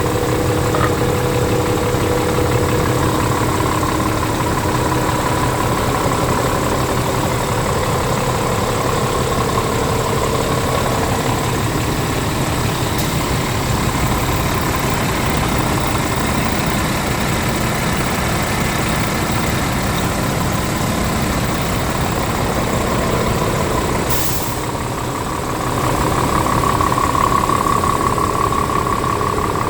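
Scania R tractor unit's diesel engine running steadily, its note drifting slowly up and down. Late on there is one short, sharp hiss; the engine sound dips briefly and then rises and grows louder.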